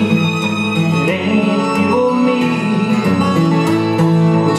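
Live acoustic folk-country music: a fiddle playing sustained, sliding melody notes over a strummed acoustic guitar.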